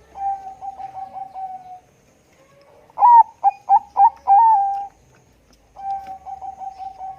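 Zebra dove (Bangkok perkutut) cooing song: a fast run of soft coos, then a louder phrase of several strong notes about three seconds in, then another fast run of coos near the end.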